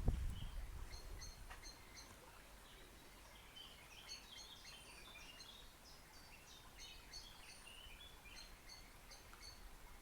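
Small songbirds chirping and singing faintly, many short high notes repeated through the whole stretch. A low rumble dies away in the first second or two.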